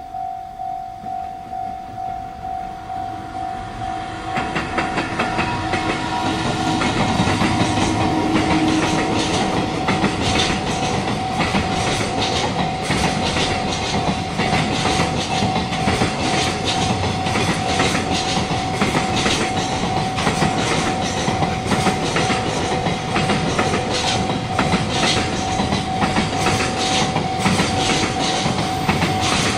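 A railway level-crossing warning bell rings in a steady, pulsing tone. About four seconds in, a long train reaches the crossing and keeps passing, its wheels clicking rapidly over the rail joints while the bell goes on underneath.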